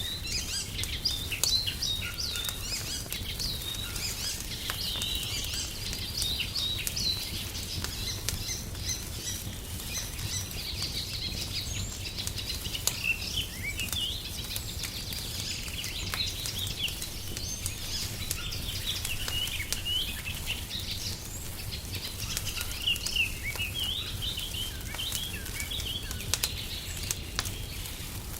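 Many small birds chirping and twittering, with the scattered snaps and pops of a wood fire crackling underneath over a steady low rumble.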